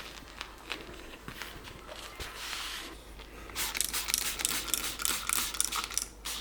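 Scrubbing and scraping of a window-cleaning tool on a window and frame. A few scattered clicks come first, then a dense scratchy rubbing stretch runs for about two and a half seconds in the second half and stops abruptly.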